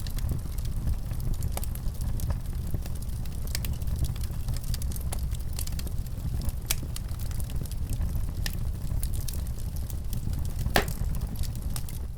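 Wood fire crackling in a fireplace: a steady low rumble of the flames with irregular sharp pops and snaps, one louder pop near the end.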